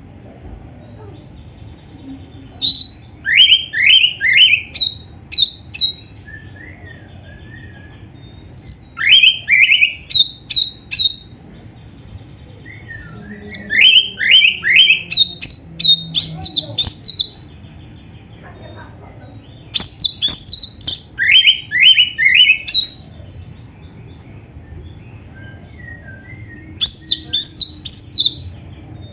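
Oriental magpie-robin (kacer) singing in five bouts of quick, repeated rising whistled notes, each bout lasting a few seconds with short pauses between.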